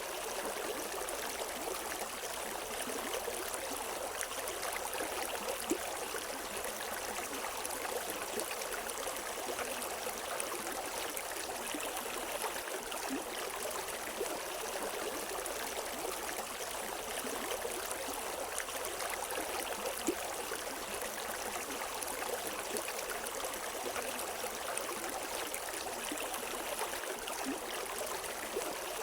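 River water flowing over rocks, a steady rushing with small splashes and gurgles throughout.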